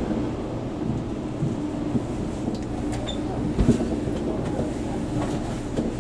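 Tōkaidō Shinkansen bullet train heard from inside the car by the door: a steady low running rumble with light clatter as it pulls in along a station platform. There is one sharp low thump about three and a half seconds in.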